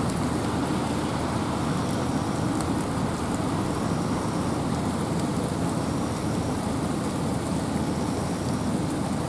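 Steady rain and wind in a forest: a low, even rushing with a faint patter of scattered drops.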